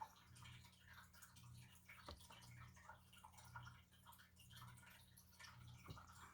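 Near silence: a faint low hum that swells about once a second, with scattered faint ticks.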